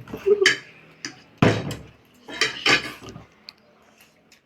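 A handful of sharp knocks and clatters, the loudest about a second and a half in and two more close together near three seconds: a plastic water bottle being flipped and hitting the table.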